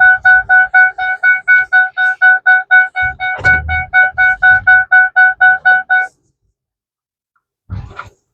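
Rapid electronic beeping on one steady pitch, about four beeps a second, stopping after about six seconds, with a few low thuds partway through.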